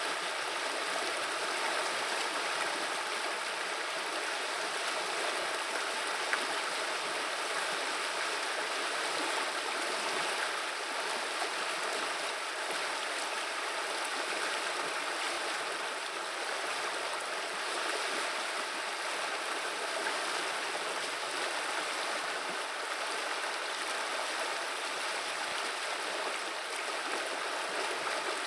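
The Vilia river running with a steady, even rush and burble of flowing water.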